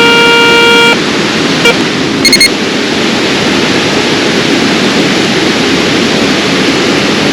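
Garrett Ace 250 metal detector sounding a steady low tone that cuts off about a second in, then three quick high-pitched beeps, over the constant rush of a waterfall.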